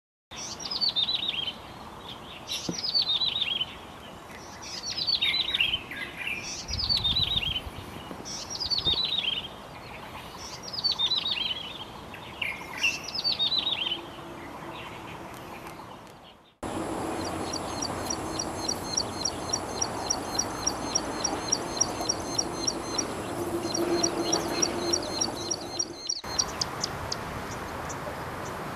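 Yellow-bellied prinia singing: a short falling phrase of chirping notes, given seven times about two seconds apart. After a cut about 16 seconds in, a plain prinia gives a fast, even run of thin ticking notes for about ten seconds.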